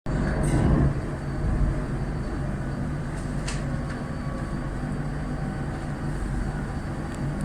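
Metro Bilbao electric train running through a station: a steady low rumble and hum, louder in the first second, with a couple of short sharp clicks.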